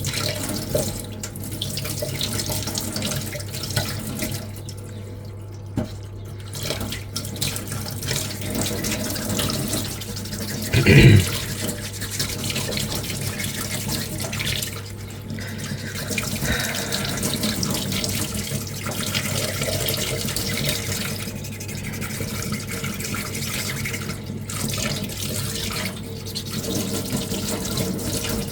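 Wet sanding underwater: waterproof sandpaper rubbing a small putty-coated armour piece in water, with continuous sloshing and dripping. A steady low hum runs underneath, and one brief louder sound stands out about eleven seconds in.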